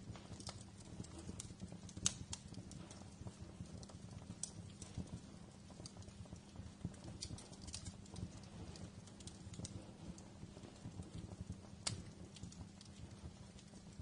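Wood fire crackling in a fireplace: irregular sharp pops and snaps over a low, steady rumble, with the loudest pops about two seconds in and about twelve seconds in.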